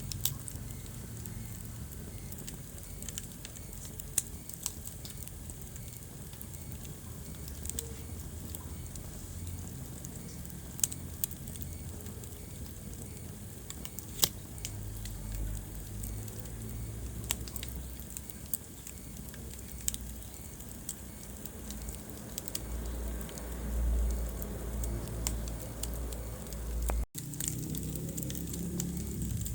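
Wood fire in a fireplace crackling, with scattered sharp pops and snaps over a steady low rumble of the flames, and a few louder pops. The sound drops out for a moment near the end.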